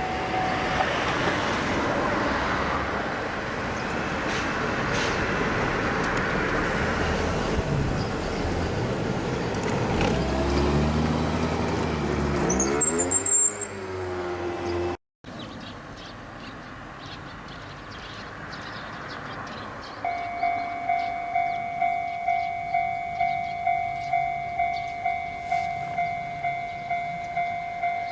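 A train passing a level crossing, with loud rolling wheel and running noise and a whine that slides up and down in pitch as it goes by. After a brief break, a Japanese level-crossing alarm starts and rings steadily, its electronic bell sounding about twice a second.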